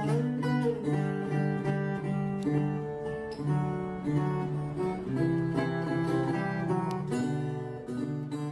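Instrumental music: acoustic guitar playing plucked and strummed chords.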